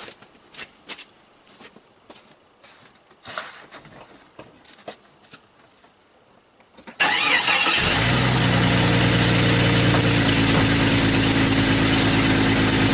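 After several seconds of only faint clicks, the Jeep's engine is cranked about seven seconds in, catches within a second and settles into a steady idle. The broken exhaust pipe is now patched with a split soup can and two hose clamps, and the engine runs the way it did before the pipe broke, without the leak.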